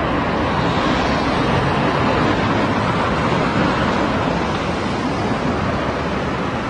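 Steady city traffic noise: a continuous rush of passing vehicles and tyres on the road.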